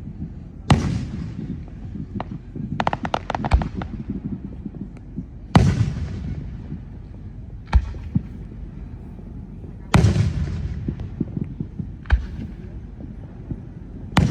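Fireworks going off: about six loud booms a couple of seconds apart, several trailing into crackle, with a quick string of small popping cracks about three seconds in.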